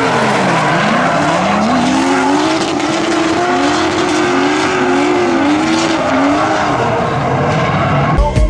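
Drift cars on track, engines revving up and down over and over in quick swells, with tyres skidding. The sound cuts off abruptly near the end.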